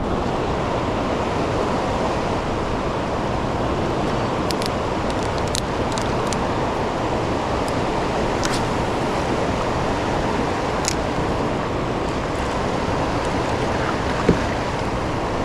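Steady rushing of fast tailwater current below a hydroelectric dam, with a few faint ticks in the middle.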